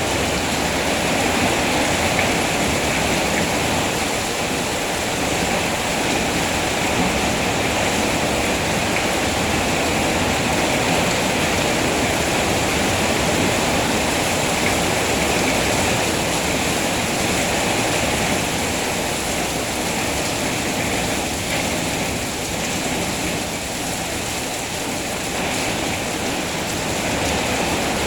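Steady heavy rain, a dense even hiss without separate drops or other sounds.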